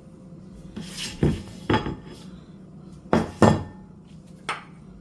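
Dishes and cutlery clattering in a kitchen: about five sharp clinks and knocks, a couple of them ringing briefly, as plates and utensils are handled.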